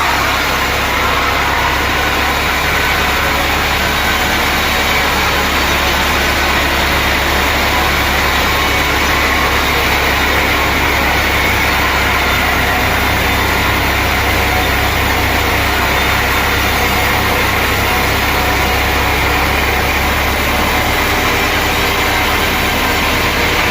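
Sawmill machinery running steadily: a loud, even noise with a low hum underneath that does not change.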